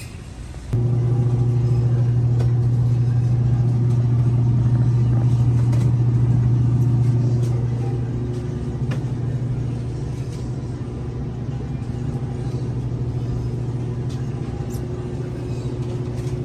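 Car engine running with a steady low hum at an unchanging pitch. It comes in suddenly about a second in, eases a little in level past halfway, and cuts off abruptly at the end.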